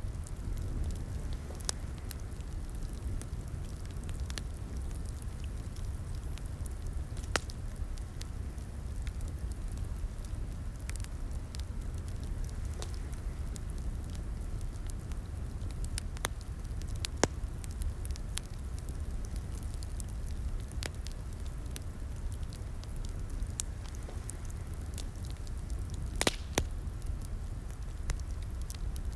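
Wood fire crackling in a fireplace: a steady low rumble of flames with scattered sharp pops and snaps at irregular intervals, a louder cluster of pops near the end.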